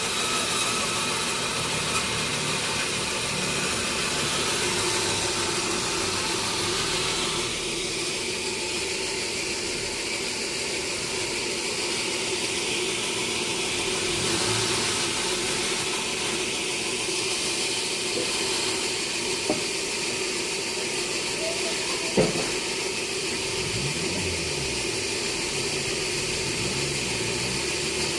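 Sawmill machinery running steadily, a continuous hissing mechanical noise, with a few sharp knocks now and then.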